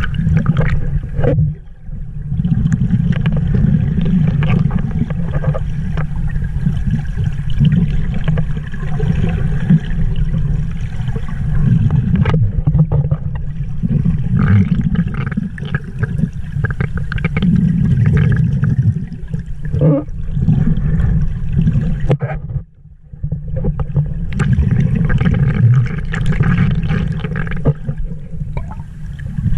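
Flowing stream water rushing and gurgling close to the microphone, with a heavy, deep rumble. It drops away briefly about two seconds in and again about 23 seconds in.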